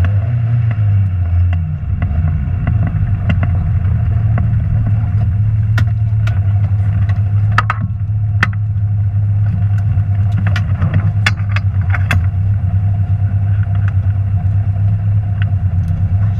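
Rally car engine running at a steady, low speed, with scattered sharp clicks and knocks over it.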